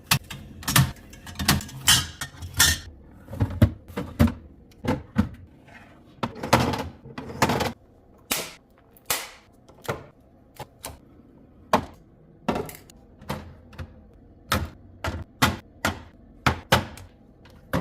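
Hard containers being set down and moved into place in a fridge: an irregular series of clacks and knocks, with a few longer sliding sounds.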